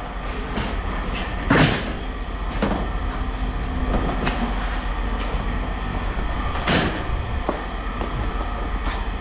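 Scrap metal being handled and set down, with sharp clanks and knocks, the loudest two about a second and a half in and near seven seconds, over a steady low rumble.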